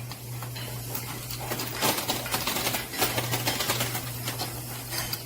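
Coin pusher machine in play: quarters clicking and clinking against one another and the metal playfield in many short irregular taps, over a steady low hum.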